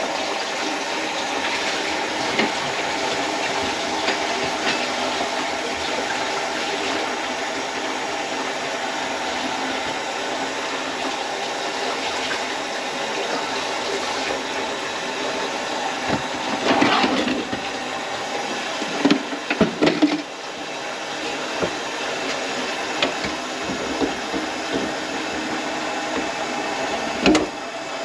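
Steady rush of running water at a plugged kitchen sink, with a few louder knocks and clatters partway through and near the end.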